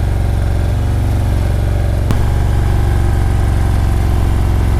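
Motorcycle engine running steadily at low revs, with a single sharp click about two seconds in.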